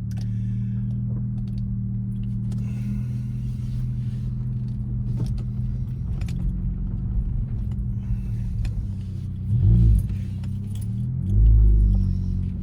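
Honda Civic's four-cylinder engine running steadily at low speed through a DC Sports performance muffler. Near the end the engine note rises briefly twice as the throttle is pressed.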